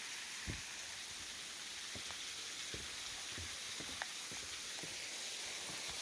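Steady hiss of falling water at a waterfall, dotted with small scattered drips and splashes.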